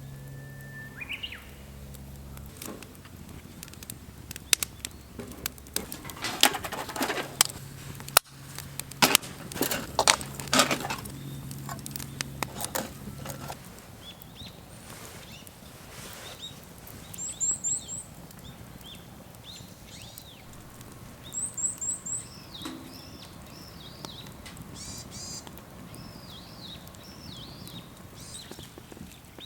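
Birds chirping in short, high, repeated calls through the second half, after a run of sharp clicks and rustles in the first half.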